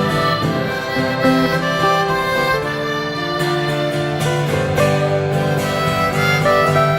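Instrumental break in a live country-folk song: a harmonica plays the melody in long held notes over acoustic guitar.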